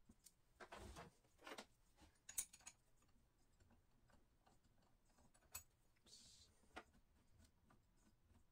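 Near silence broken by a few faint clicks and short rustles, with one sharper click a couple of seconds in.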